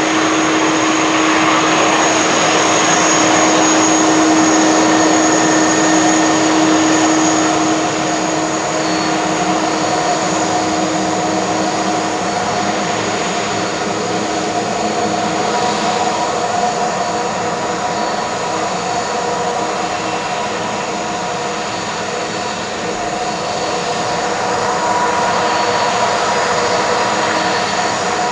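Airbus A330-223 jet engines running loud and steady during its takeoff, a constant rushing noise with several steady whining tones. The strongest tone fades and the sound eases after about seven seconds, then swells slightly again near the end.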